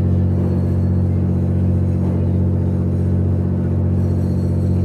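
Boat engine running at a steady speed: a loud, unchanging low drone.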